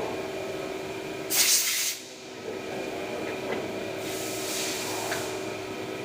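CNC machine tool running with a steady hum of several fixed tones. A loud hiss starts a little over a second in and lasts under a second, and a softer hiss comes around four to five seconds in.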